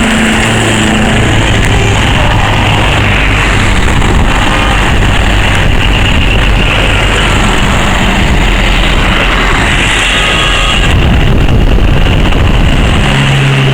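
Lorries in a convoy driving past, their diesel engines running under a steady, loud wash of road noise.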